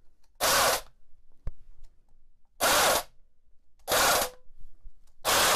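AEG BH25 rotary hammer's motor switched on in four short blips of about half a second each, with quiet gaps between, on its first test after rewiring. One carbon brush is sparking heavily, which the owner puts down to the brush needing to wear back in to the commutator.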